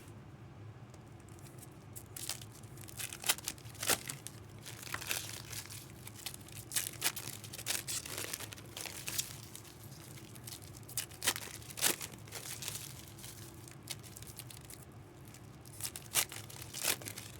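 Trading-card pack wrappers being torn open and crinkled by hand, in irregular bursts of sharp crackling that start about two seconds in, over a low steady hum.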